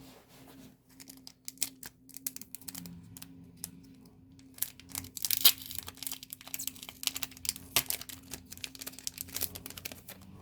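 Album packaging crinkling and tearing as it is unwrapped by hand: a run of quick, sharp crackles that grows denser and louder about halfway through.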